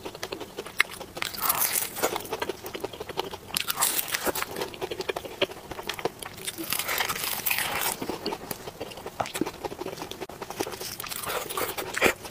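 Close-miked biting and chewing of a flaky, crisp pastry topped with chopped pistachio, a dense run of small crunches and crackles.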